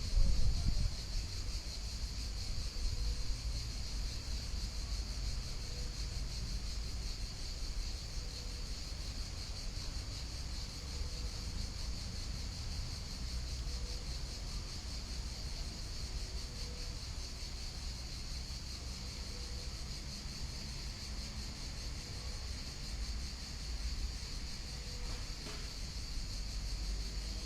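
Calm river flowing as a steady low rumble, under a continuous high chirring of insects, with a brief louder surge in the first second.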